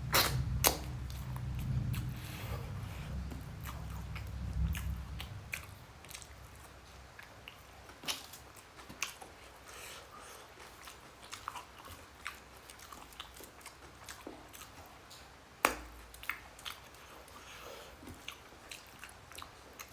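Close-up eating sounds: a person chewing and smacking on a mouthful of rice and egg curry, with scattered wet clicks and smacks. A low rumble runs under the first few seconds and then fades.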